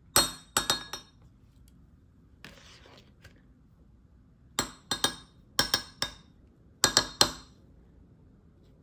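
Dishware clinking: sharp strikes that ring briefly, coming in quick clusters of two or three, most of them in the second half.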